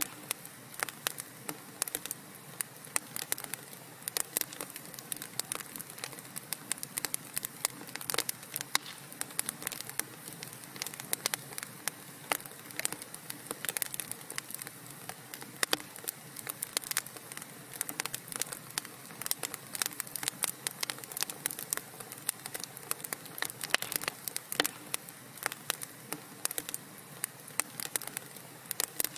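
Wood fire crackling in a fireplace: a steady bed of burning noise with many sharp irregular pops and snaps.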